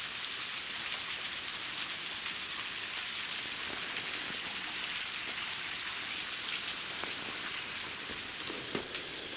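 Waterfall: a steady, even rush and hiss of falling water.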